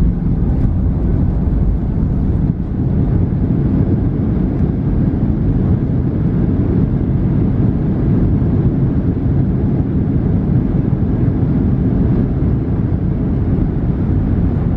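Steady low rumble inside the cabin of a Boeing 737-700, from its CFM56-7 engines and the airframe, heard from a rear window seat.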